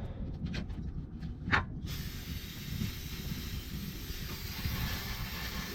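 Aerosol coil cleaner (NU Blast, high-pressure blasting nozzle) spraying in one long steady hiss onto a plugged condenser coil, starting about two seconds in, after a few light knocks.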